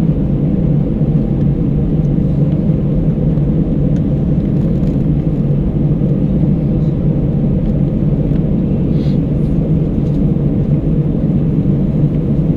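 Steady cabin noise inside an Airbus A319 airliner in flight: a constant low rumble of engines and airflow, heard from a window seat.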